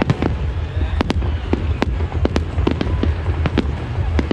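Fireworks display: a rapid, irregular series of sharp bangs from bursting fireworks, about three a second, over a continuous low rumble.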